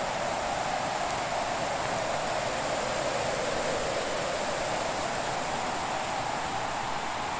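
Winter fireplace ambience: a steady rushing noise whose pitch drifts slowly, with a few faint crackles.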